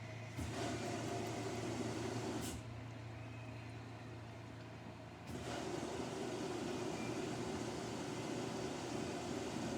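Samsung washing machine running a wash, with a steady low hum. A rushing, swishing noise comes in about half a second in, stops a couple of seconds later, and starts again about five seconds in, as the drum tumbles the load and pauses.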